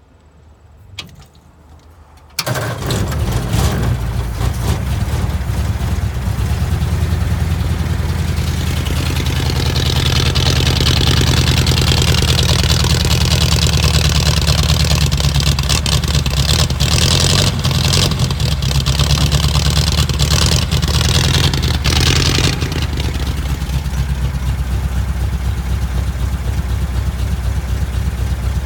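Ford Model A roadster hot rod's engine cold-starting: a single click about a second in, then the engine catches suddenly and runs. It runs louder through the middle, then settles to a quieter, steady idle about three quarters of the way through.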